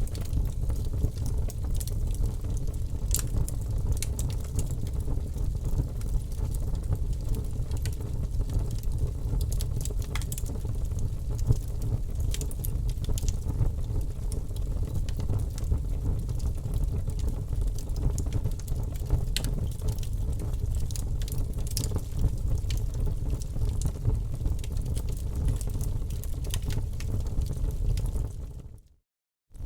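Wood fire burning in an open fireplace: a steady low rumble of flames with scattered sharp crackles and pops. Near the end the sound fades out to silence for about a second, then comes back.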